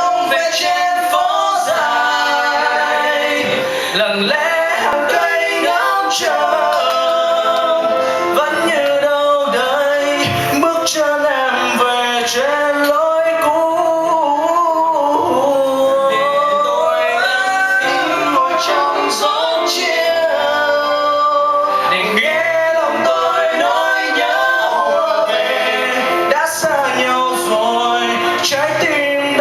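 Live vocal music: male and female voices singing a slow melody together over instrumental accompaniment.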